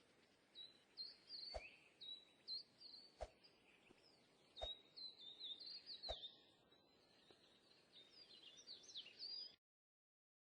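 Faint bird chirping: a quick run of short, high notes, with a few soft clicks about a second and a half apart. It cuts off abruptly near the end.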